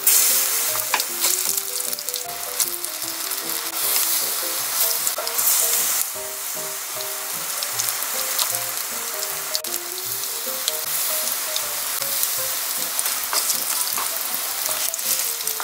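Batter-coated perilla flower clusters frying in shallow cooking oil in a nonstick pan: a steady sizzle full of small crackles and pops. Soft background music of short melodic notes plays underneath.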